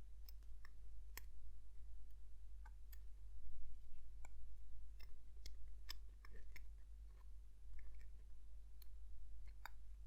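Small, irregular clicks of metal watchmaker's tools touching and setting parts of a watch movement during reassembly. A steady low hum runs underneath.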